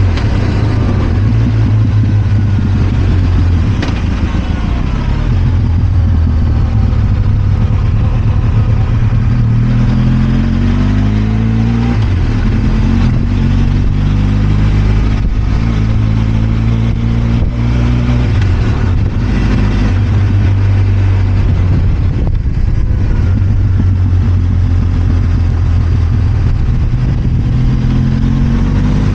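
Benelli TRK 502 X's 500 cc parallel-twin engine running under way, mostly steady, its pitch rising in steps under acceleration about a third of the way in and again at the end, over wind and road noise.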